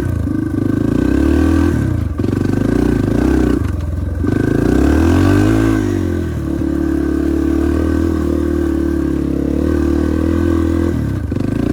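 Yamaha TT-R230 dirt bike's single-cylinder four-stroke engine running at low speed, with a rev up and back down about halfway through and short drops in throttle around two and four seconds in.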